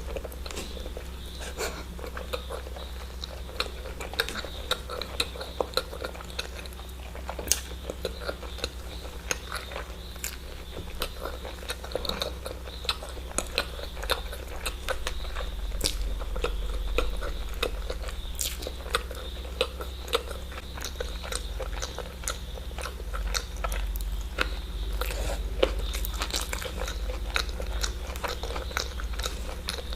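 Close-miked eating of eggs: a person biting and chewing, with many sharp mouth clicks, over a low steady hum.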